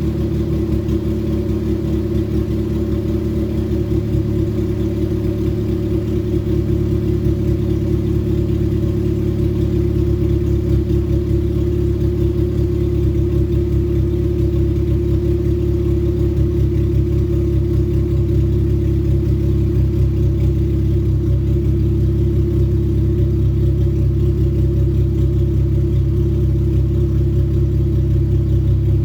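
Honda K24/K20 four-cylinder engine idling steadily at a constant pitch on one of its first start-ups after the build. It runs loud.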